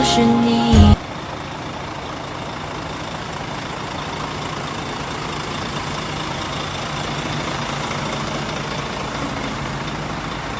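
Background music cuts off about a second in. Steady vehicle engine noise follows: a heavy vehicle running, with a low, even hum.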